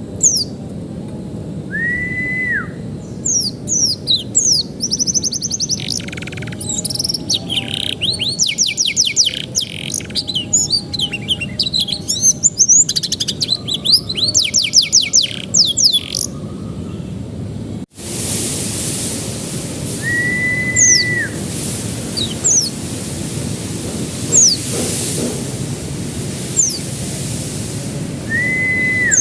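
Domestic canary singing: rapid rolling trills and fast runs of repeated high notes. Near the middle the sound cuts to a quieter passage of single high, falling chirps, and a held, level whistle note of about a second recurs several times throughout.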